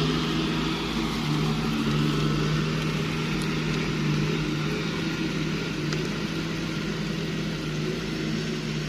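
Mitsubishi Fuso truck's diesel engine running with a steady, unchanging note.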